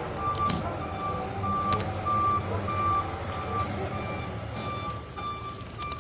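Isuzu box truck's reversing alarm beeping steadily, about two high beeps a second, over the low rumble of the truck's engine as it backs up.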